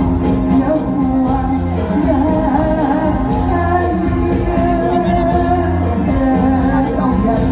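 Live Thai luk thung / mor lam band music with a singer over a steady drum and bass beat.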